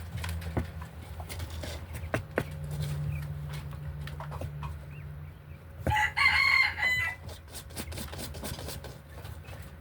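A chicken's call, about a second long, about six seconds in, over a low steady hum and scattered small clicks.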